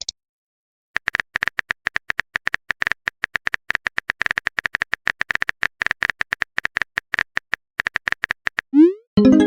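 Keyboard typing sound effect of a text chat: rapid short taps, several a second, starting about a second in and going on for about seven seconds. Near the end comes a short rising blip and then a chime, a message-sent or notification tone.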